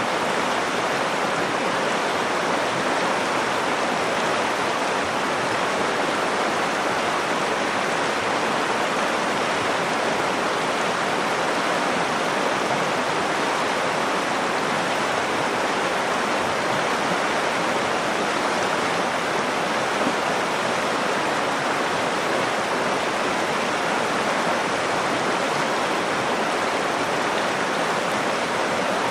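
Nakdong River water flowing, a steady, even hiss of running river water with no breaks or distinct splashes.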